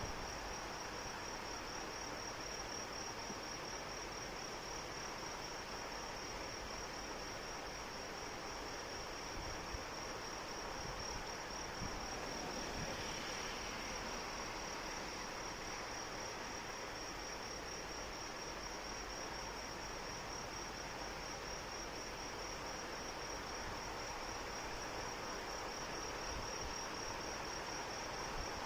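Steady rain falling, with insects trilling continuously on one high, fast-pulsing note over it.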